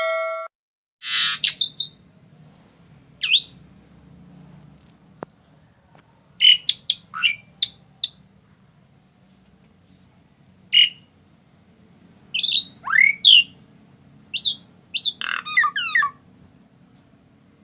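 Asian pied starling calling in scattered bursts of sharp whistles and raspy, gliding notes, with a cluster of quick notes near the end. A brief ringing tone opens it, and a faint low hum runs under the calls.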